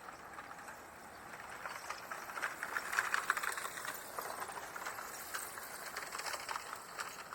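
Grey-headed lapwing giving a rapid rattling chatter of sharp clicks, building up about two seconds in, loudest around the third second, then carrying on more quietly.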